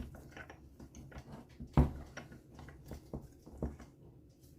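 Irregular light clicks and knocks of metal engine parts and tools being handled during a moped engine strip-down, with one sharper knock a little under two seconds in.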